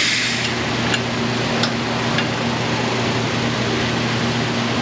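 Air-powered vacuum brake bleeder running with a steady hiss, sucking brake fluid out through a caliper bleeder during a brake flush, over a low steady hum.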